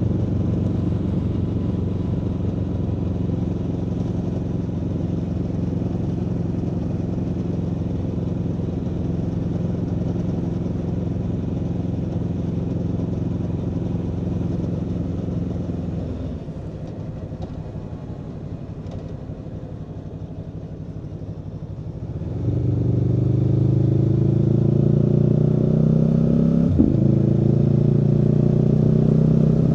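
Aprilia Tuono V4 motorcycle's V4 engine running at steady revs. About halfway through the throttle closes and it goes quieter for several seconds. Then it pulls hard again, revs climbing, with a quick upshift a few seconds later and the revs climbing again after it.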